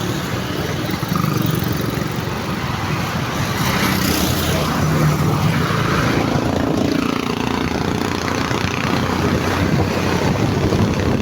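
Motorcycle engine running amid street traffic noise.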